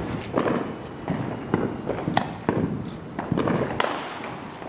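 Fireworks going off: a string of sharp bangs and pops at irregular spacing, the sharpest a little past the middle and just before the end, with an aerial shell bursting overhead.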